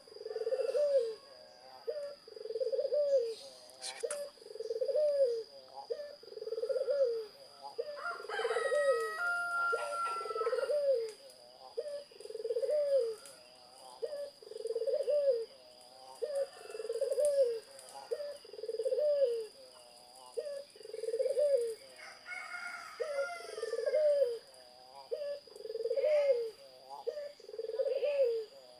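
Zebra dove (perkutut) cooing over and over, about one phrase a second. Another bird whistles briefly about a third of the way in and again two-thirds of the way in, over a faint steady high whine.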